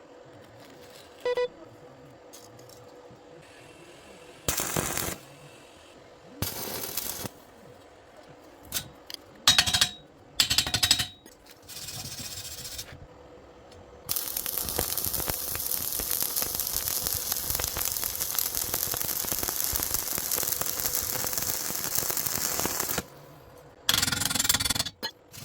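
Stick-welding arc: a few short bursts of arc noise, then a steady crackling run of about nine seconds, and one more short burst near the end.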